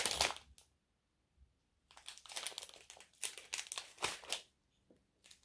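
Plastic packaging crinkling in short bursts as it is handled, with quiet gaps in between.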